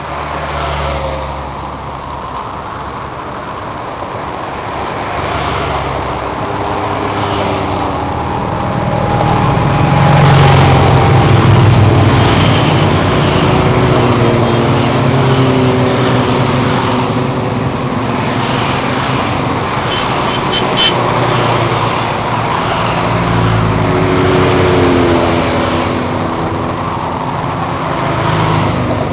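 Engines of a group of motorcycles riding in procession, several engine notes overlapping and shifting. The sound swells to its loudest about a third of the way in, and a short high tone sounds about two-thirds in.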